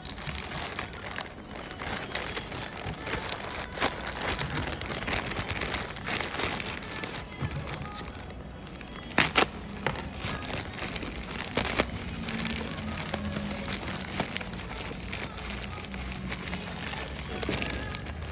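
Packaging being handled and unwrapped, with steady crinkling and rustling and many small clicks. A couple of louder sharp clicks or knocks come about halfway through.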